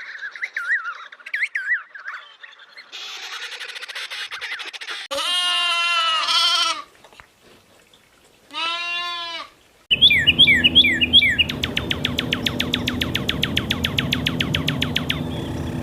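A run of separate animal calls one after another: wavering chirps, then two long bleats with a wobbling pitch, then quick chirps and a fast, even rattling trill that runs to the end.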